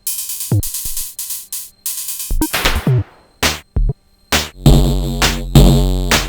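Sonic Potions LXR-02 digital drum machine playing a techno pattern: quick percussive hits, a sparse break with only a few isolated hits, then about four and a half seconds in a loud, deep pitched drum hit comes in, repeating about every 0.6 s.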